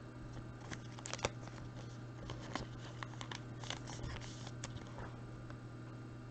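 Trading cards being handled: scattered small clicks, slides and rustles, busiest in the middle, over a steady low hum.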